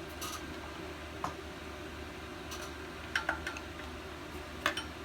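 Light clicks and taps of small engine parts being handled and set down on a workbench during an engine teardown: a few scattered clicks with a quick cluster about three seconds in, over a steady low hum.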